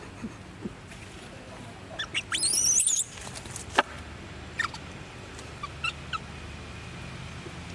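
A baby monkey squealing: a run of shrill, wavering squeals about two seconds in, lasting about a second, then a few short chirps and clicks, over a low steady hum.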